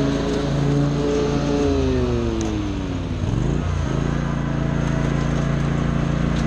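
Small petrol engine of lawn equipment running. Its pitch falls as it slows from a little under two seconds in, swoops briefly, and then it runs steady at a new speed.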